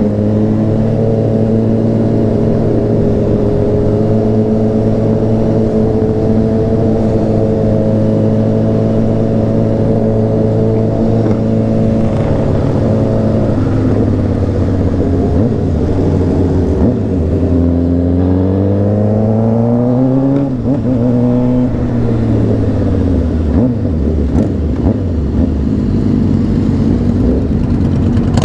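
Honda CBR600RR's inline-four engine running at a steady cruise, then easing off. About 17 s in, the revs climb in a rising whine before dropping sharply as the throttle closes or it shifts gear, then it settles at lower revs.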